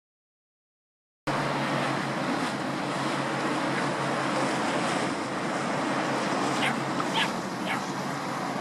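A boat engine runs with a steady low drone under wind and surf noise, after a dead gap of about a second at the start. Near the end come a few short, high, falling chirps.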